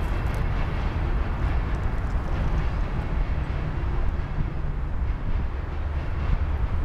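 Covered hopper cars of a Union Pacific freight train rolling past, giving a steady rumble of steel wheels on the rails.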